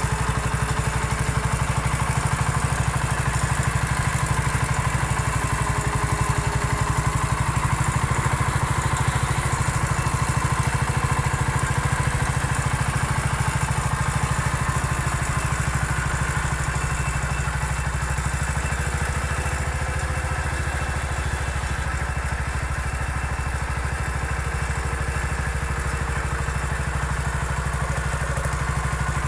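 MF 14 garden tractor's engine running at a steady speed, with no change in pitch or load.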